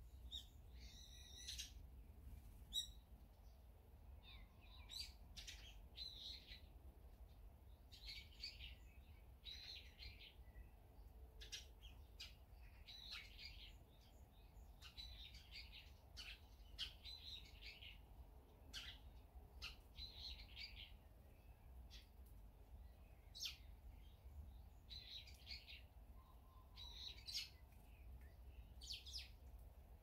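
Small songbirds chirping faintly and repeatedly: short runs of high chirps every second or two, with a few sharp ticks, over a low steady rumble.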